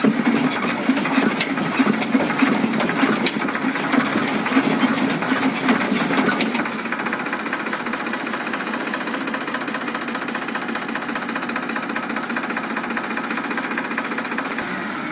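Tractor diesel engine running with a fast, even mechanical chatter; it is louder for the first six seconds or so, then drops to a steadier, quieter running.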